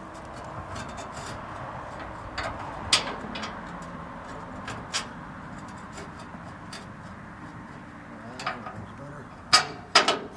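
Sharp knocks and clicks of hand work on the truck, likely from removing or fitting its rear bumper: a few scattered ones, then three loud ones close together near the end, over a steady background hiss.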